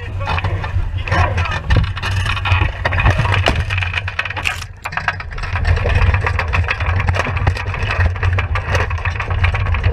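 Loud wind rumble buffeting the microphone on an Enterprise sailing dinghy under way, with scattered knocks and rattles. It eases briefly about four and a half seconds in.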